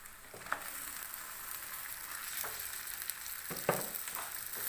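Raw broiler chicken pieces tipped into hot oil with frying onions and spices, the sizzle rising sharply about half a second in. A steel spatula stirs them, with several short knocks and scrapes against the pan.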